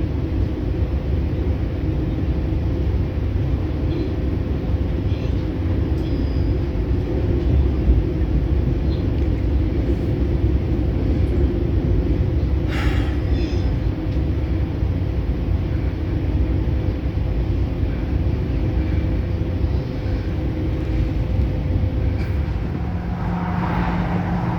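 Interior of a moving passenger train: a steady low rumble of the running gear with a constant electrical hum underneath.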